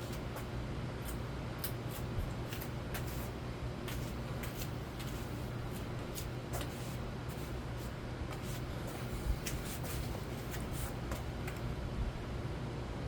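Nadair 42-inch ceiling fan running on low speed: a steady motor hum with irregular light clicks throughout.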